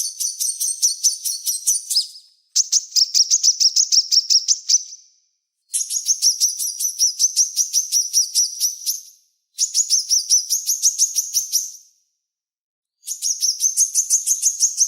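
A small songbird sings rapid trilled phrases of quick, sharp, high-pitched repeated notes, about five or six notes a second. Each phrase lasts two to three seconds, with short pauses between them, five phrases in all.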